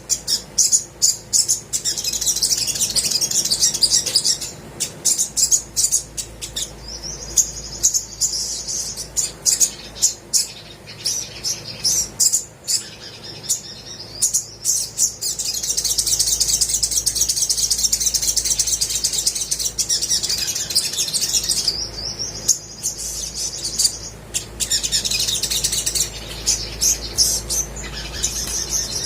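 Olive-backed sunbird in full song: long runs of rapid, high twittering broken by sharp, repeated chip notes.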